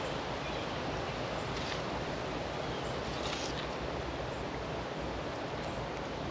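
Steady wind noise, with two faint clicks about one and a half and three and a half seconds in.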